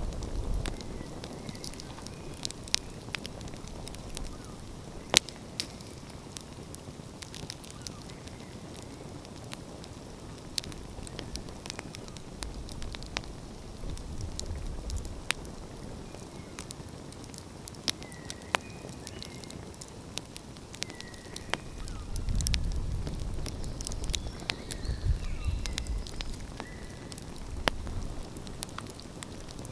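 Open wood fire crackling, with irregular sharp pops and snaps. A low rumble swells twice, around the middle and again in the last third.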